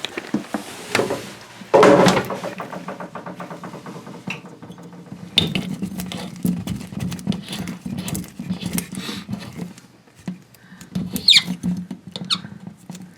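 Toilet water-supply shut-off valve being turned off by hand, with small taps, scrapes and a couple of short squeaks near the end.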